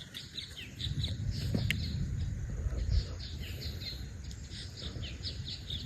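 Songbirds chirping, many short high chirps repeating quickly and overlapping, with a low rumble under them from about a second in to three seconds.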